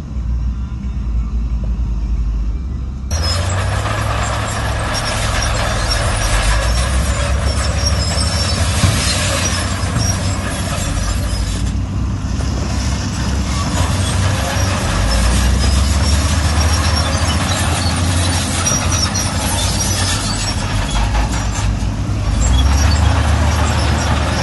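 Heavy diesel engines of earthmoving machinery running under load, a steady low rumble with mechanical clatter. About three seconds in, the sound changes abruptly to a fuller, noisier mix.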